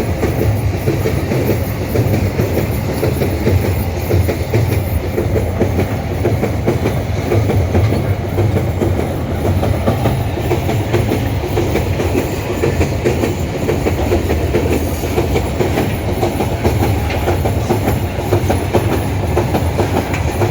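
Empty iron-ore wagons of a long freight train rolling steadily past, a continuous rumble with clattering wheels on the rails.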